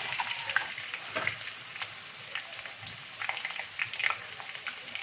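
Marinated chicken pieces sizzling in hot oil in a kadai, with scattered light clicks and scrapes of a utensil as the golden-brown fried pieces are lifted out.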